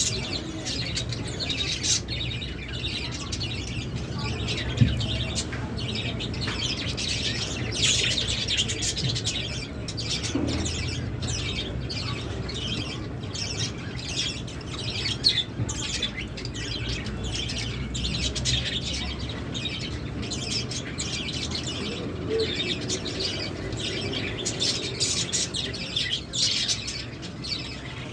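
Lovebirds chirping and chattering, a continuous run of short, high calls, over a steady low hum.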